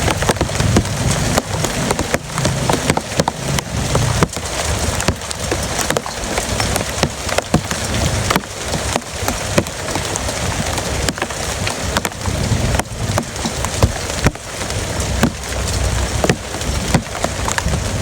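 Heavy rain falling steadily, with many sharp, close drops clicking and cracking as they hit a hard surface.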